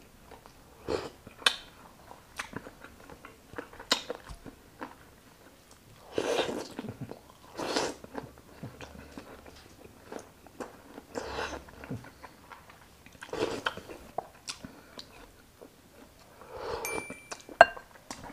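Close-miked chewing and biting of a mouthful of food, full of small wet clicks, with several louder stretches of chewing. A brief thin ringing tone sounds near the end.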